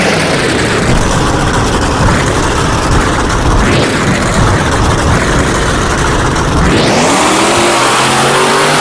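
Monster truck's supercharged V8 engine running loud and hard, then revving up with a rising pitch about seven seconds in.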